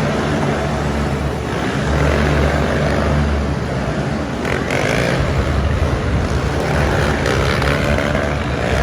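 Motor vehicle engines running loudly with a steady low drone, shifting in pitch as they rev.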